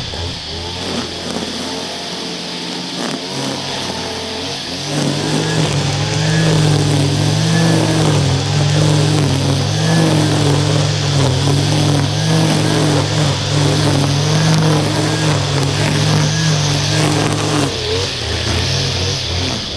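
Small two-stroke engine of a Stihl handheld garden power tool running steadily. It runs at a lower speed for about the first five seconds, goes up to a louder, higher, slightly wavering note, and drops back near the end.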